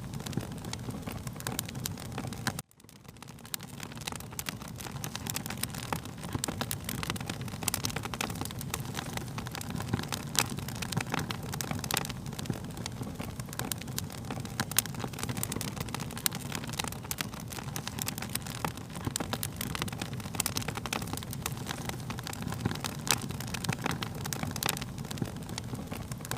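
Wood fire crackling: a steady low rumble of flames under many sharp pops and snaps. About three seconds in it cuts out suddenly and fades back up.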